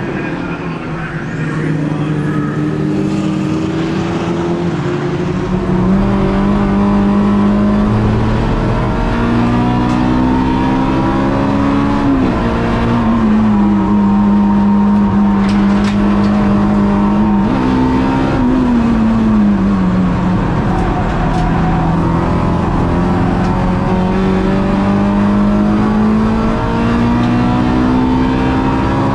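Race car engine running hard on track, its pitch climbing slowly under acceleration, falling away sharply twice midway as it comes off the throttle and changes gear, then climbing again.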